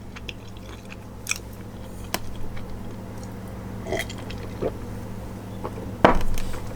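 Close-up sounds of a person chewing a mouthful of jambalaya and cornbread, with scattered soft mouth clicks and a louder one near the end. A steady low hum runs underneath.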